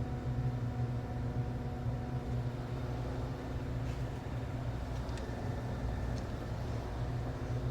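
Steady low mechanical hum, like a fan or motor running, with a few faint light clicks over it.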